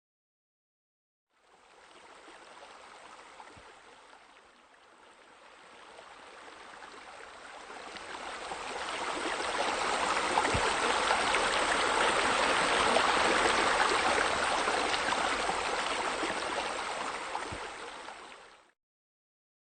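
Water pouring over a pool waterfall feature and splashing into the pool. It starts faint, grows louder over several seconds, then holds steady before cutting off abruptly.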